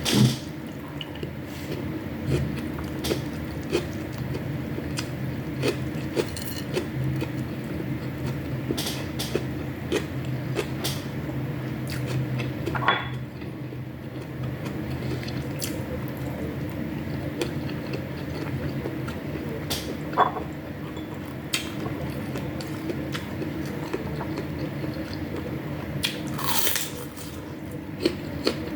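Cutlery clinking and scraping against a plate and dishes during a meal: scattered sharp clicks and a few louder knocks, over a steady low hum.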